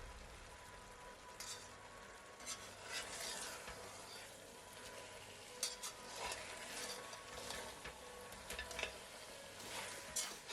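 Mutton pieces cooking in a yogurt-and-onion masala in a pot, with a faint steady sizzle. A spoon stirs and scrapes against the pot now and then.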